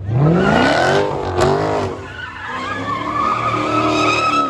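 Car engine revving up hard as the tires spin and squeal in a long, wavering screech, with a sharp crack about a second and a half in.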